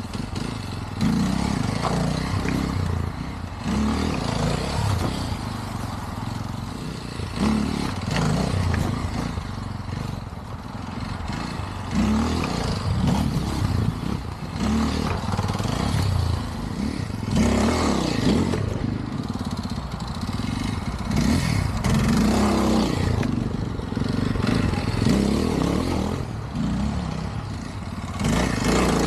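Dirt bike engine being ridden, revving up and dropping back again and again as the throttle is worked.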